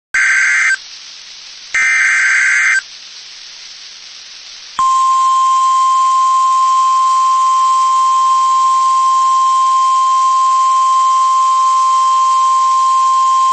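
Emergency alert tones from a National Weather Service warning broadcast: two short bursts of buzzy digital header data, then from about five seconds in the steady 1050 Hz weather-radio warning alarm tone, held unbroken for about nine seconds. The tones signal the start of a severe thunderstorm warning.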